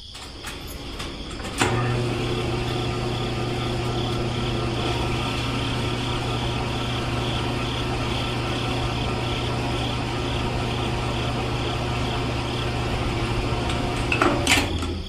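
A DIY model mini tractor's small motor running steadily under load as it hauls a heavy trolley. It starts with a click about a second and a half in and stops shortly before the end.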